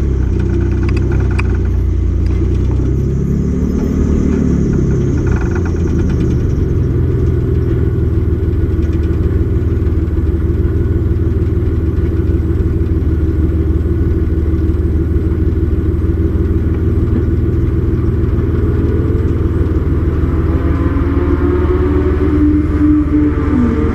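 Race truck's engine running hard on track, its pitch dipping and rising again about three to five seconds in. It holds steady for a long stretch, then climbs near the end as the truck accelerates.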